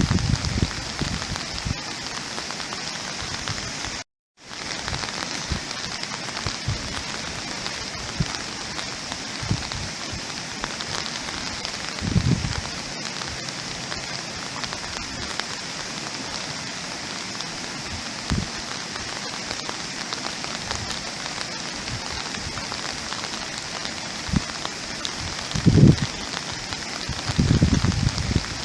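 Steady rain falling on a surface, an even hiss of many drops, with a few low thumps scattered through. The sound cuts out to silence for a moment about four seconds in.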